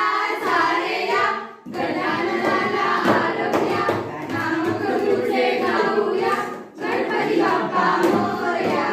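A group of young voices singing a song together, with two short pauses between lines, about a second and a half in and again near the end.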